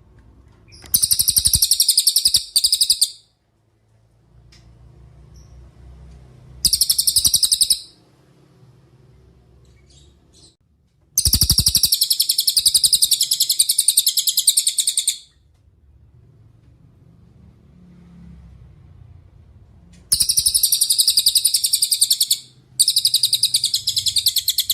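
Cililin bird singing in rapid, high chattering trills, about five bursts of one to four seconds each with short pauses between them. The longest trill comes near the middle.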